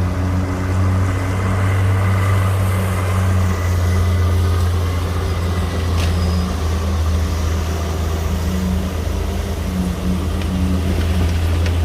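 Heavy earthmoving machine's diesel engine running steadily, a deep hum that hardly changes in pitch.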